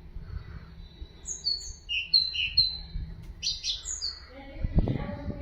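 Small songbird, the bird the title calls 'haddad', singing a repeated phrase of short, clear, high notes in quick alternating pairs. Some low muffled thumps come in near the end.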